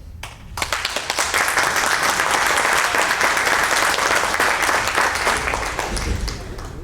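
Audience applauding in a council chamber. The clapping starts about half a second in, holds steady and thins out near the end.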